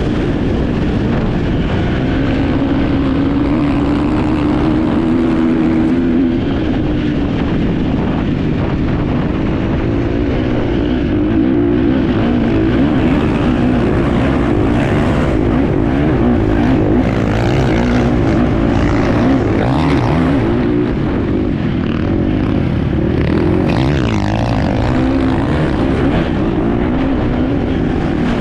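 Enduro motorcycle engine heard up close while riding, its note rising and falling continuously as the throttle is worked over the course.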